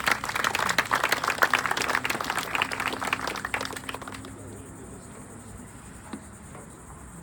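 Crowd applauding, the clapping dying away about four seconds in, with a steady high drone of insects behind it.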